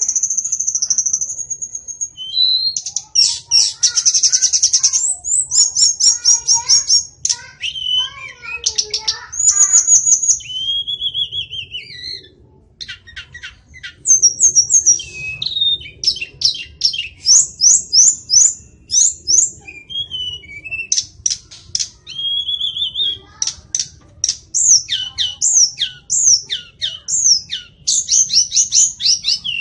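White-rumped shama singing a long, varied song: clear high whistles, fast trills and rapid runs of sharp chirps in quick succession, with a brief pause about twelve seconds in.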